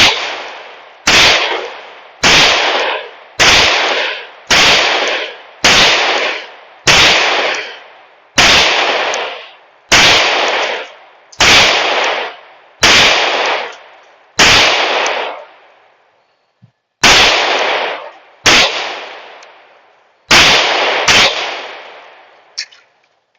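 Smith & Wesson M&P 5.7 pistol firing 5.7x28mm 40-grain full metal jacket rounds: about sixteen single shots at a steady pace of roughly one a second, each ringing off briefly, with a short pause about two thirds of the way through.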